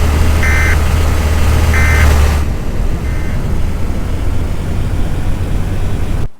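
Loud, steady rushing noise of a vehicle on the move, with a low drone that drops away about two and a half seconds in. Two short beeps sound about half a second and two seconds in. The sound cuts off suddenly at the end.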